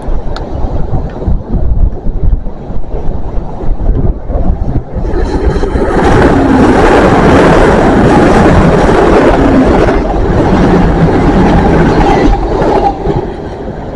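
Wind buffets the microphone, then a CrossCountry diesel passenger train passes close by from about five seconds in. Its wheels and engines make a loud, steady rush for about seven seconds before it fades away.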